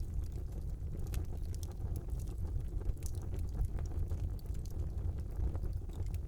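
Wood fire burning in a fireplace: a steady low roar of flames with frequent small, irregular crackles and pops.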